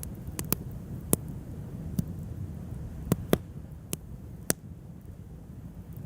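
Wood campfire crackling: about eight sharp, irregular pops over a low, steady rumble.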